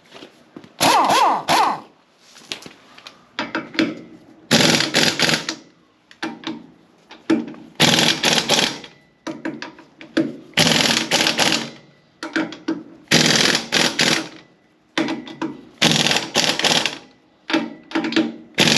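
A wrench tightening the lug nuts on a trailer wheel: short bursts of clicking and rattling, one nut after another, about every two to three seconds. The nuts were a little loose.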